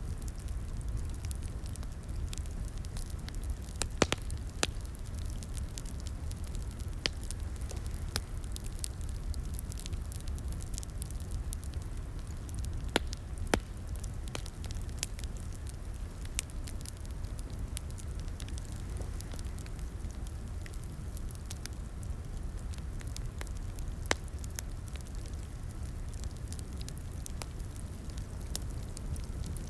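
Wood fire crackling and popping over a steady low rumble of the flames, with sharper pops about 4, 13 and 24 seconds in.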